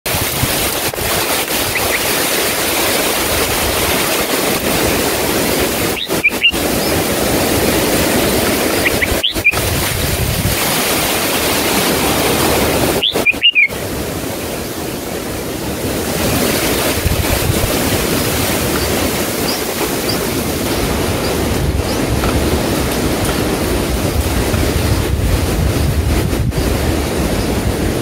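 Steady loud rushing noise, with a few brief high rising chirps from bulbuls at a nest of begging nestlings, about two, six, nine and thirteen seconds in.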